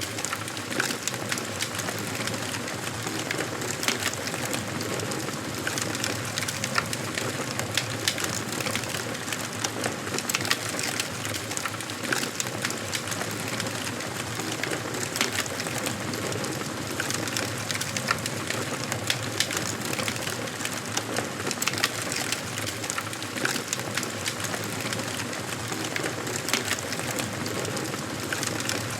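Wood fire crackling in a fireplace: a steady hiss of burning with frequent sharp, irregular pops and crackles from the burning wood.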